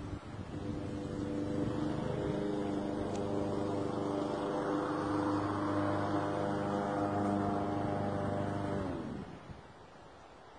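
A motor running with a steady hum, then winding down and stopping about nine seconds in.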